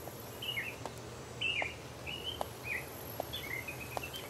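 Small birds chirping, a string of short calls every half second or so, over a steady low outdoor rumble.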